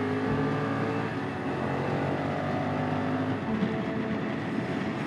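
Honda CRF1100L Africa Twin's parallel-twin engine running at motorway speed, with wind and road noise, heard from the rider's seat; the engine note shifts slightly in pitch.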